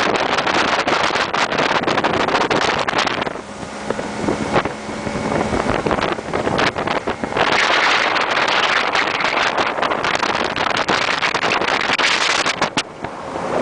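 Motorboat underway: its engine running under heavy wind buffeting on the microphone and the rush of passing water. The wind eases for a few seconds near the middle, leaving a steady engine hum, then picks up again.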